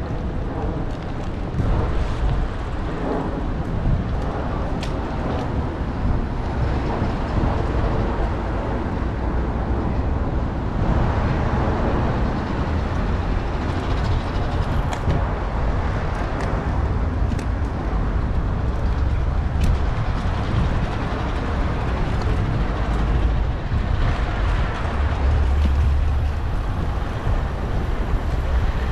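Road traffic heard from a moving bicycle: a steady low rumble of vehicles and road noise that swells and eases as traffic passes, with a few faint clicks.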